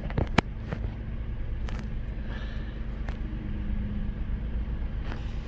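Car engine running, a steady low rumble heard from inside the cabin, with a few light clicks in the first half second.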